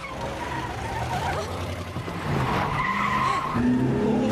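A car's tyres skid and squeal over its running engine. The squeal is a steady high tone that lasts about a second, starting about two and a half seconds in.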